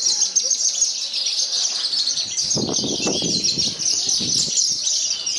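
A chorus of many Javan bush larks (branjangan) singing at once, a dense, rapid, high twittering with no break. A low rumbling noise rises under it in the middle for about two seconds.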